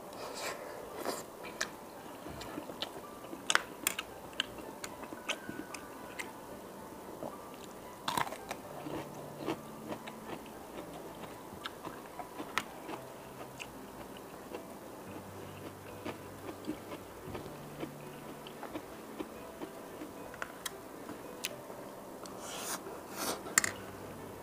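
Close-miked eating sounds: a person chewing mouthfuls of creamy pasta, with many sharp wet mouth clicks and smacks. The clicks come in denser clusters near the start and again near the end.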